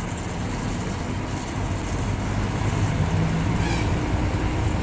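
Intercity bus's diesel engine running with road noise, heard from inside the driver's cabin while under way.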